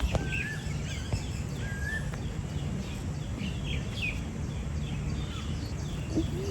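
Several birds chirping and whistling in short repeated calls over a steady low rumble of outdoor background noise, with a single knock right at the start.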